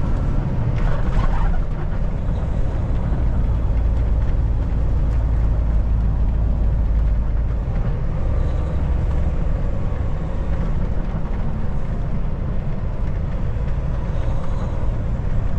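Kenworth T680 semi-truck running steadily on the road, heard from inside the cab: a continuous deep engine rumble with road noise. The deepest part of the rumble eases slightly about eight seconds in.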